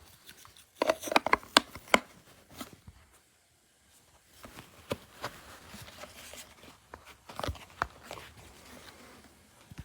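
Irregular sharp clicks and knocks, as of something being handled: a quick cluster about a second in, then scattered softer clicks with a few sharper knocks in the second half.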